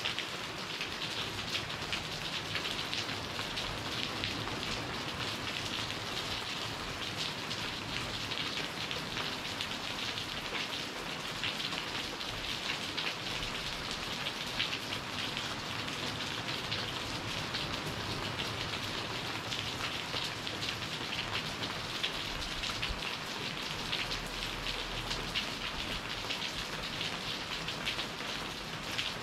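Steady tropical rain falling, many drops striking at once in an even hiss that is strongest in the upper range.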